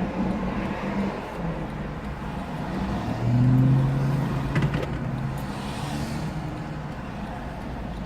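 Motor vehicle engine running steadily, with a louder swell about three seconds in, like a vehicle going past.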